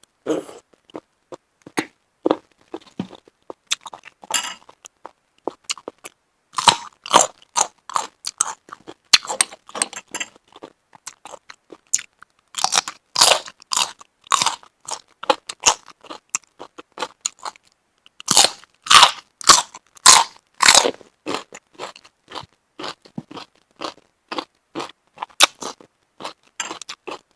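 Close-miked chewing of shellfish: irregular, wet crunching clicks that come in clusters, loudest about halfway through and again about three quarters of the way through.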